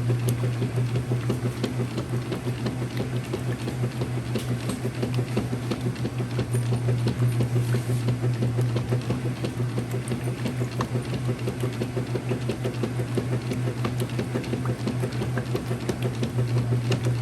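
Whirlpool direct drive washing machine running: a steady motor hum with an even, rapid pulsing over it.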